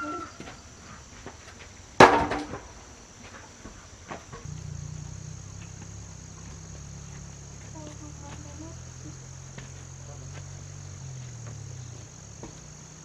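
Insects shrilling steadily at a high pitch, with one loud knock about two seconds in and a low steady hum from about four and a half seconds in.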